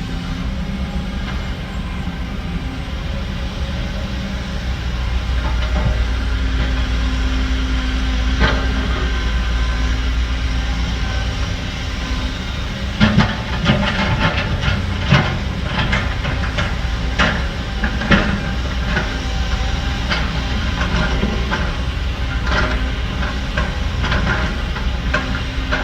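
Heavy diesel earthmoving machinery running with a steady low rumble, and from about halfway through a scatter of sharp metallic clanks and knocks.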